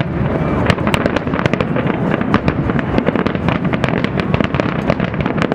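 Fireworks going off in a dense barrage: many rapid sharp crackles and pops over a continuous low booming rumble.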